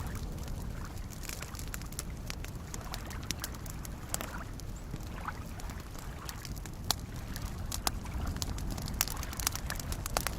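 Campfire crackling with scattered sharp pops, a few louder ones in the second half, over soft lake waves lapping and sloshing steadily.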